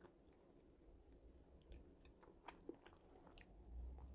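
Faint chewing and small wet mouth clicks from a person eating french fries, heard as scattered quiet ticks over near silence.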